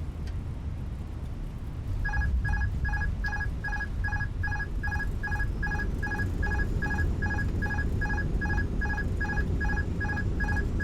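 Rapid electronic beeping, about three to four short beeps a second, starting about two seconds in, over a steady low rumble of the aircraft rolling out after touchdown.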